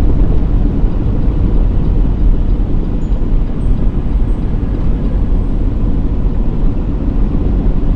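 Loud, steady low rumble of a moving vehicle, with no distinct knocks or horn.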